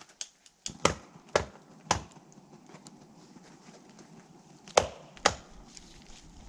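An axe chopping wood: three sharp blows about half a second apart, a pause, then two more blows near the end.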